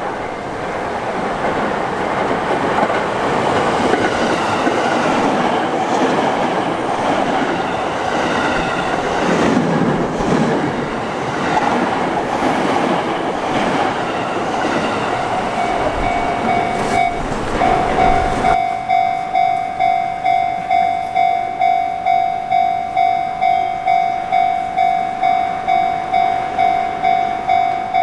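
A Sotetsu Line train running past over a level crossing, with the crossing's alarm bell starting up underneath about two-thirds of the way through. The train noise then cuts off abruptly, leaving the crossing alarm ringing alone at about two strikes a second.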